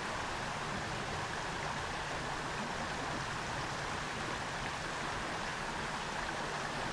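Creek water running steadily: a continuous, even rushing sound.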